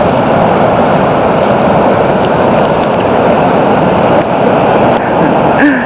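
Steady roar of floodwater pouring over a dam at peak flood.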